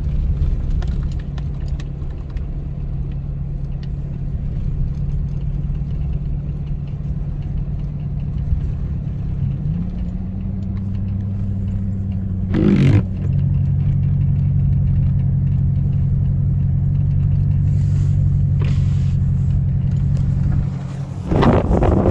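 An engine running steadily with a low hum, its pitch shifting slightly about ten seconds in. A short sharp noise sounds about thirteen seconds in, and a louder rushing burst comes near the end.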